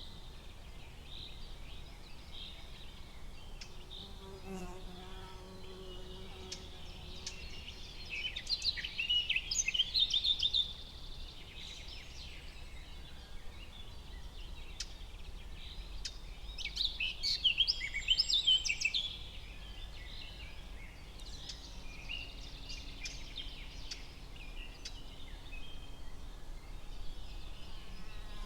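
Forest ambience with songbirds singing: scattered high chirps throughout, and two louder phrases of rapid high notes, about 8 seconds in and again about 17 seconds in, over a steady low background hum.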